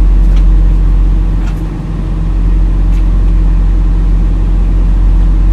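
Western Star semi truck's diesel engine and tyres running steadily at highway speed, a loud low drone with a few faint ticks and a short dip in level about two seconds in.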